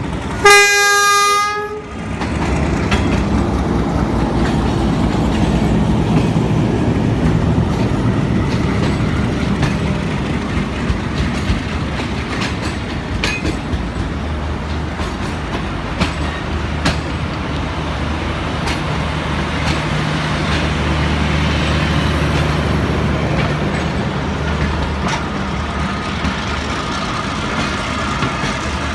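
A train horn sounds one short, loud blast about half a second in. Then a passing train rumbles steadily, with a low diesel engine hum and scattered clicks of wheels over rail joints.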